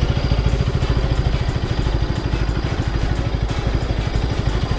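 Motorcycle engine running steadily at low revs, with a rapid, even low pulsing.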